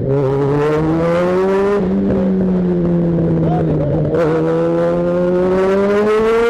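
Yamaha XJ6's inline-four engine under way, accelerating: its pitch climbs, levels off in the middle, then rises steadily again through the second half.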